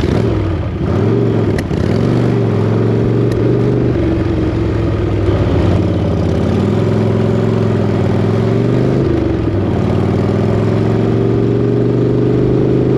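Chopper motorcycle engine running under the rider, its revs rising and falling with the throttle. It is an engine that, by its owner's account, keeps wanting to stall when left at low revs.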